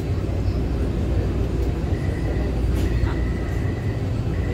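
Metro train running, heard from inside the carriage: a steady low rumble, with a thin high whine joining about halfway through.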